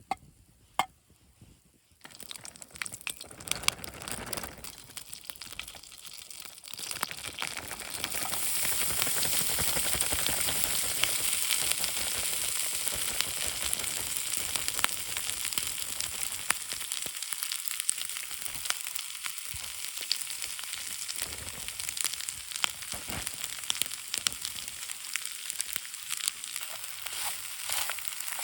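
Food frying in a hot pan: a crackling sizzle that starts a couple of seconds in and grows louder and steadier about eight seconds in. Two short clicks come just before it.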